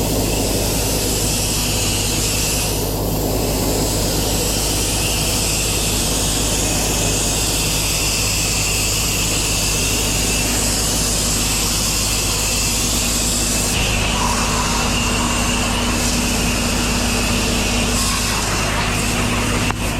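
Gas-engine pressure washer running steadily under load, its engine hum beneath the loud, even hiss of high-pressure water spraying from the wand.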